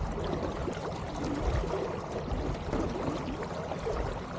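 Water trickling and gurgling along the hull of an Elliott 7.4 sailboat moving slowly through the water.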